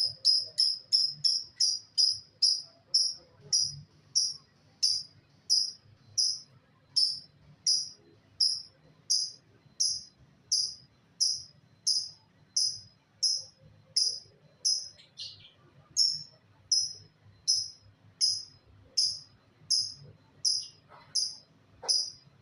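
A young lovebird chirping: a long series of short, high, slightly falling chirps at an even pace, about three a second at first and slowing to a little over one a second.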